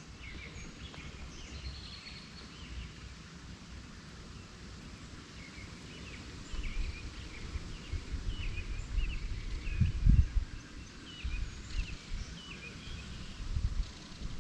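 Small birds chirping in short repeated phrases over outdoor background noise, with low rumbles coming and going in the second half, loudest about ten seconds in.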